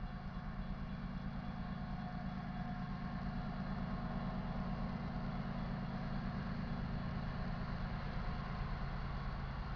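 Low, steady rumble of an approaching freight train's GE diesel-electric locomotives, growing slowly louder.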